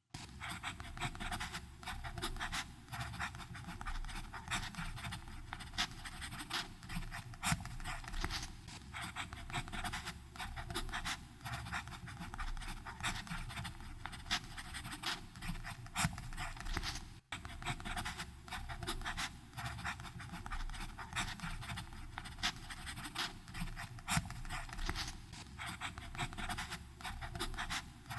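Fountain pen nib writing on paper: continuous scratching made of many short strokes, with a brief pause about seventeen seconds in.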